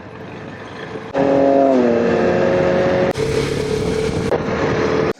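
KTM 390 Adventure's single-cylinder engine running on the move with wind noise. About a second in it becomes much louder, its note falling as the revs drop. About two seconds later the sound changes abruptly and the engine holds a steady note.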